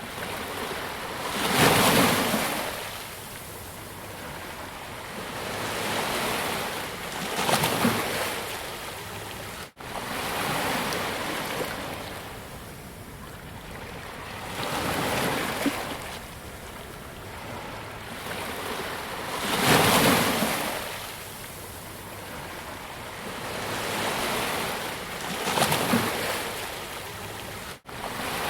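Ocean waves breaking on a beach, the surf swelling and washing back every few seconds. Four louder crests stand out among softer ones, and the sound cuts out for an instant twice.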